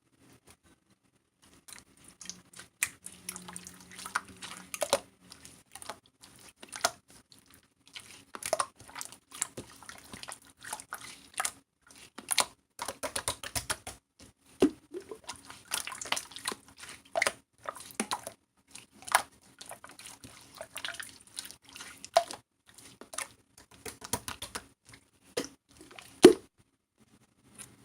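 Slime being squeezed, stretched and pressed by hand, making irregular wet clicks and pops of trapped air, one louder pop near the end.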